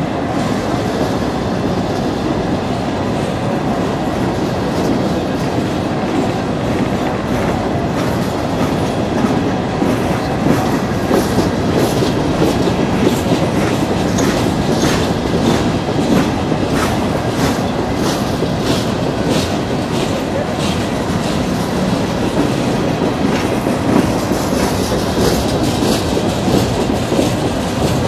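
Coal hopper cars of a CSX freight train rolling past: a steady rumble of steel wheels on rail, with repeated clicks and clacks as the wheels cross rail joints. The clicks come thickest in the middle and again near the end.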